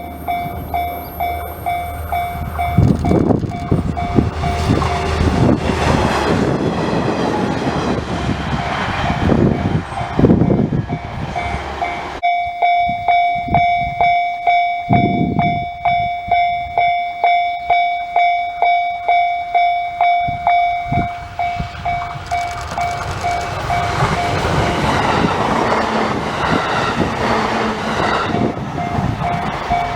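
Railway level-crossing warning bell ringing in a steady pulse, about three rings every two seconds, while trains run past on the Kita-Shinano Line. Wheel and rail noise from a passing train fills the first part. About midway the bell rings almost alone, and the running noise of a train builds again in the last third.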